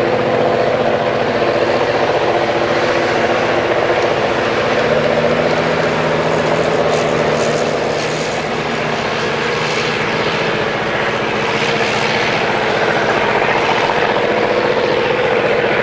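Heavy diesel railway engines running steadily under load: a loud, even drone with several steady tones, dipping slightly about halfway through.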